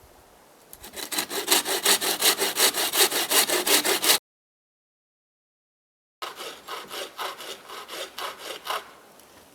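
Bow saw cutting through a dry pine trunk with fast, even back-and-forth strokes. The sound cuts out abruptly for about two seconds, then the strokes resume more quietly and stop near the end.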